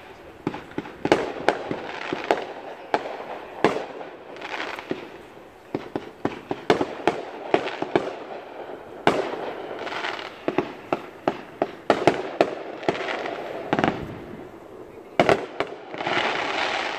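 Fireworks going off: many sharp bangs, some in quick clusters, with hissing, crackling bursts between them.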